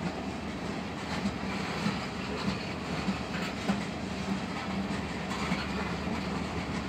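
Railroad tank cars of an oil train rolling past, their wheels clacking over rail joints about every 0.6 s over a steady rumble.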